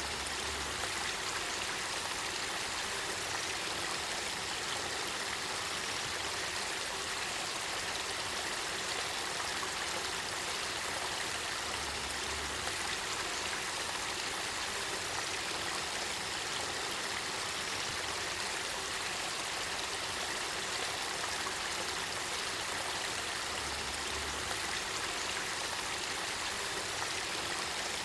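Spring water of the Kakita River running in a steady, even stream.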